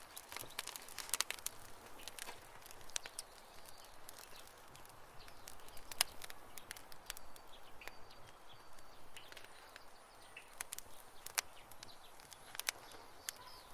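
Wood campfire crackling, with irregular snaps and pops, a few sharper than the rest, over a soft hiss. Faint short high chirps come now and then.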